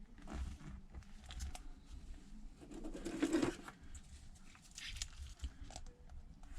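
Small spring clamps being handled and set on the edge of a tablet to hold a freshly glued screen: a few short scraping, rustling noises, the biggest about halfway through.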